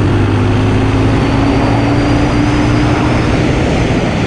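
Small off-road vehicle engine running under way, its pitch creeping slowly upward, under a loud rushing noise.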